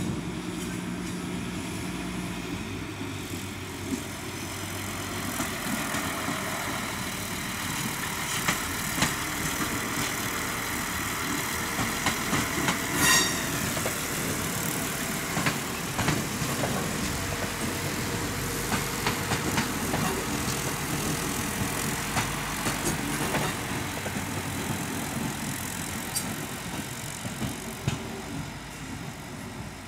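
Newag SA-138 diesel railbus with a 120A trailer car moving slowly through the station tracks. The diesel engine runs steadily and the wheels click and knock over rail joints and switches, with a brief sharp squeal about halfway through.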